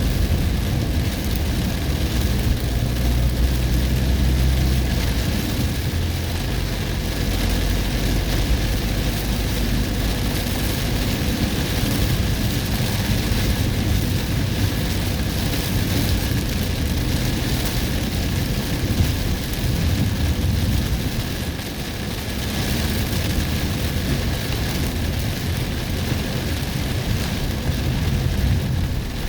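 Heavy storm rain pouring down on a moving car, with a steady low rumble of engine and tyres under the even hiss of the rain.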